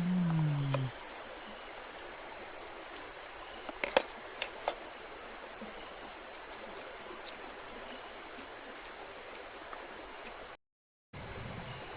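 Steady high-pitched drone of forest insects, with a faint regular pulsing chirp above it and the even rush of a river beneath. A few sharp clicks come about four seconds in, and the sound cuts out for half a second near the end.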